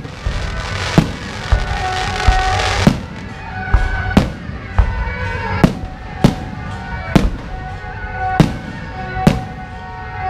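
Aerial firework shells bursting overhead, about a dozen sharp bangs at roughly one a second. A continuous rushing crackle runs alongside them for the first three seconds, then stops.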